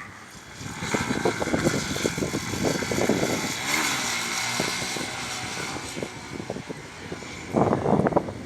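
Yamaha XTZ 250 Lander's single-cylinder engine revving hard as the bike rides by. It comes in about a second in, rises and falls, then eases off, with a short louder burst near the end.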